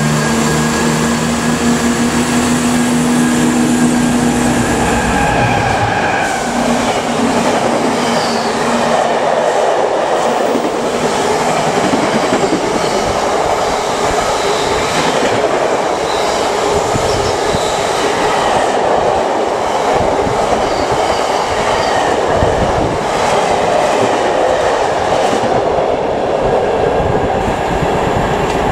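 Freight train of tank wagons passing at speed: a steady engine drone for the first five seconds or so, then a continuous rumble and rapid clatter of wagon wheels over the rail joints, cutting off sharply at the end.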